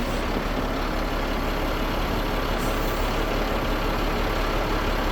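Ford F750's Caterpillar 3126B inline-six diesel engine idling steadily.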